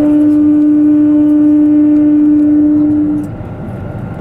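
Train horn sounding one long steady blast of about three seconds that cuts off suddenly, over the running rumble of the train.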